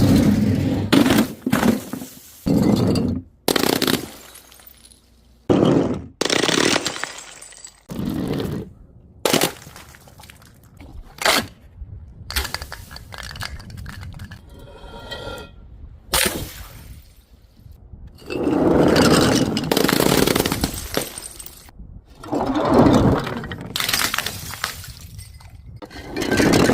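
Glass bottles and jars breaking one after another: a series of separate crashes and shatters with clinking pieces. There is a brief ringing tone about halfway through, and longer, louder crashes in the last third.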